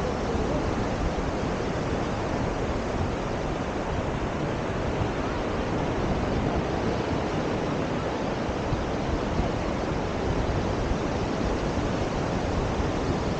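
Steady wash of sea surf on a beach, mixed with wind noise on the microphone.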